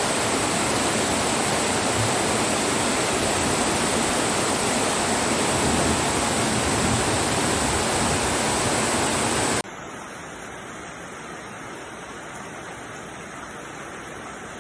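Torrential rain and rushing floodwater: a loud, dense, even roar of water. Nearly ten seconds in it cuts off abruptly to a quieter, steady hiss of rain.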